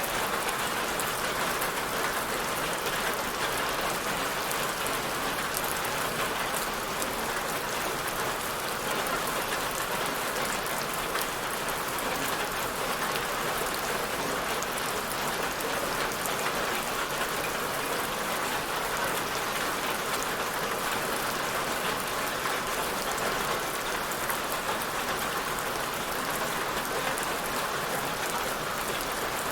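Steady rain falling, a constant even hiss with fine scattered drop patter.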